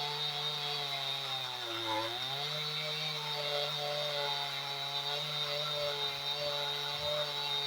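Chainsaw engine running at high revs while it drives a chainsaw mill through a log, ripping a board. Its pitch sags briefly about two seconds in as the saw bogs under the load, then climbs back and holds steady.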